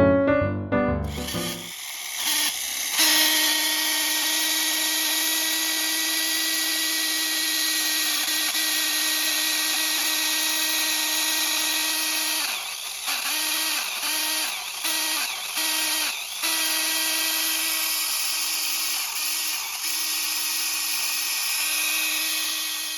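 Mini 4WD car's small electric motor and gear drivetrain running flat out with a steady high-pitched whine. It dips and returns about five times in quick succession midway. This is the abnormal drive noise (異音) the owner wants to cure.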